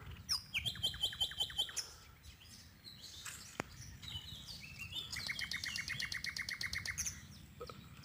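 Birds singing: a quick run of high, evenly repeated notes about half a second in, then a longer run of slightly lower repeated notes, about eight a second, from about five to seven seconds.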